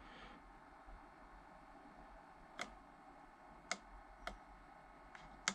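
A handful of short sharp clicks at uneven intervals, the last the loudest, as buttons are pressed on a diesel heater's control panel.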